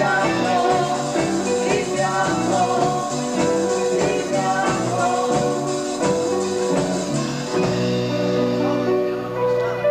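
Progressive rock band playing live, heard through an amateur tape recording of the concert.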